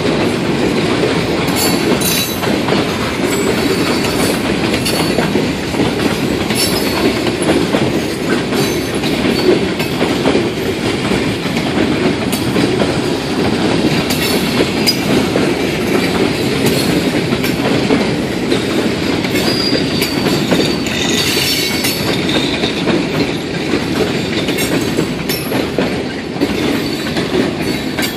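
Freight cars of a Maine Northern Railway train rolling past: a steady rumble of steel wheels on rail with irregular clicks from the rail joints and a few short high wheel squeals.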